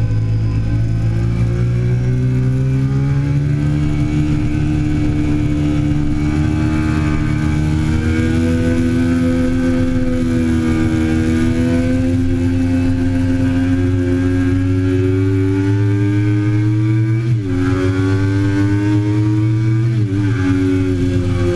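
2008 Triumph Daytona 675's inline three-cylinder engine running at high revs on track, its pitch slowly rising and falling, with two quick dips in revs about seventeen and twenty seconds in.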